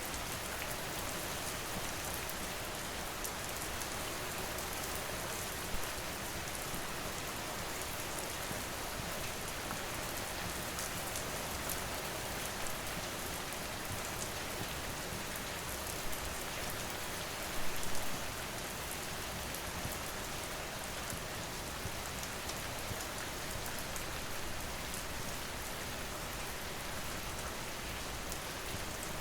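Steady rain falling, with a wood fire crackling under it and a few sharper pops, the loudest cluster a little past halfway through.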